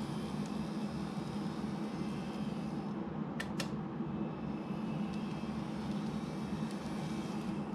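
Steady mechanical hum, with two short clicks about three and a half seconds in.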